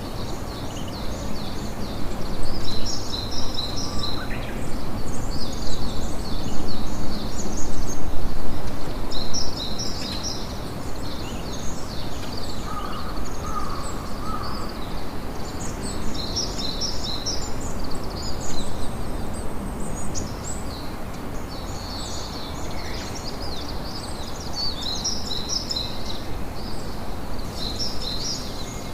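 Outdoor nature ambience: a steady noisy bed with birds chirping in clusters of short, high calls. The bed is louder for the first third and then settles.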